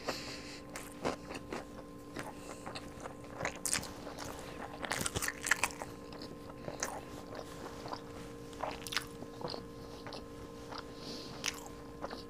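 Close-up chewing of crunchy food: irregular crisp crunches, busiest in the middle. A faint steady hum runs underneath.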